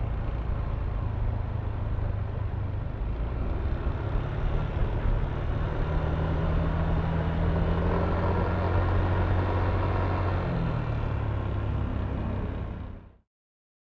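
Yamaha Aerox V3 scooter's 155cc single-cylinder engine running, with road noise around it, holding a steady pitch for a few seconds midway; the sound fades and cuts off shortly before the end.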